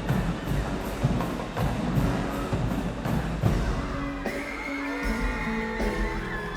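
Marching band music: the drumline plays a steady beat of about three strikes a second, then the brass section comes in with held chords about four seconds in.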